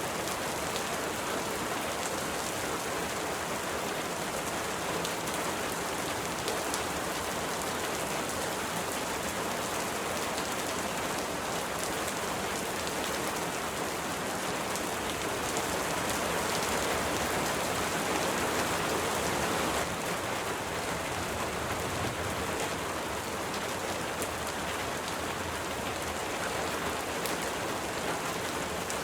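Steady rain falling, an even hiss of many drops, swelling a little for a few seconds past the middle and then dropping back abruptly.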